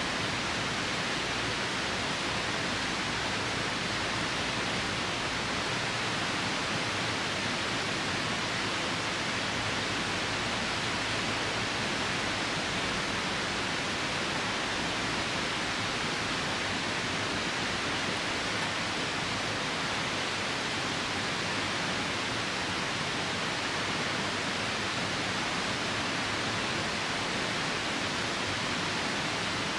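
Steady rushing of a nearby river, an even unbroken hiss of water with rain falling.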